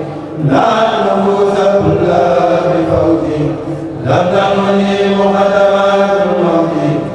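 A kourel, a Mouride chorus, chanting an Arabic khassida together in long held phrases, with a brief breath break about four seconds in.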